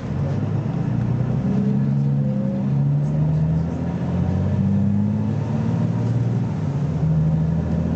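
BMC Belde 220-SLF city bus's engine accelerating, its note changing pitch in steps several times.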